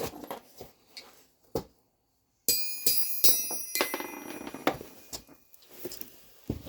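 Steel ball bearing dropped onto a Ridgid Peddinghaus 165 lb forged steel anvil, striking and bouncing several times about two and a half seconds in, with a bright, bell-like ring from the anvil that fades away. A few light clicks from handling come before it.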